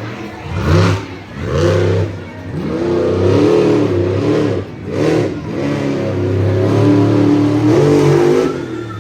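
Monster truck engine revving hard over and over, its pitch climbing and dropping several times, then holding a longer, steadier high rev in the second half.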